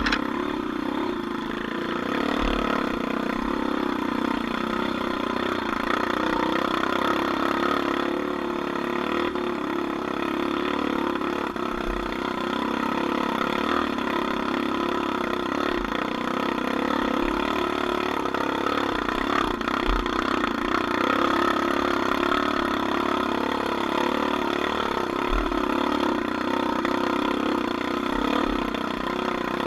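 Off-road vehicle engine running steadily for a long stretch, with small changes in level but no sharp revving.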